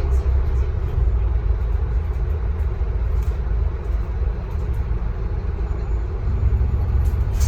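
Scania K310UB city bus running steadily, its diesel engine giving a continuous low rumble over road noise, which swells slightly near the end.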